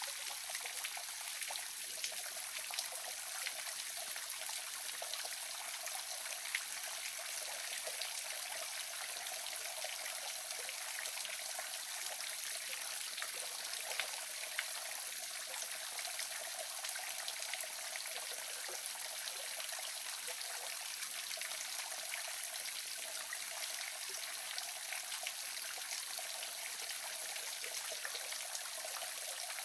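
Small waterfall splashing and trickling: a steady rush of falling water with scattered brighter drips and splashes.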